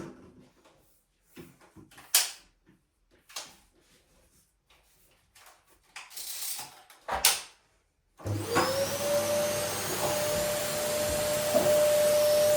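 Scattered knocks and rustles of things being handled during tidying, then a vacuum cleaner is switched on about eight seconds in, its motor spinning up to a steady whine.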